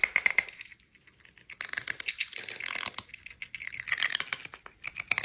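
Rapid, irregular clicking and rattling, like something small being handled or crinkled, in three spells with short gaps.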